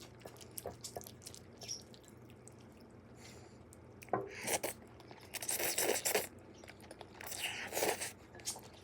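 Someone eating myeongran-mayo udon: scattered light clicks, then louder stretches of mouth and eating noise from about four seconds in and again near the end.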